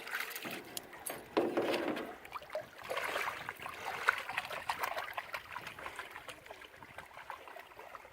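Shallow river water splashing and trickling, in irregular bursts that are strongest about a second and a half in and again around three seconds, then settling into a softer trickle.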